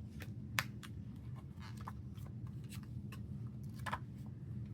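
Photocards and paper album inserts being handled: scattered light clicks and rustles of card and paper, over a faint steady low hum.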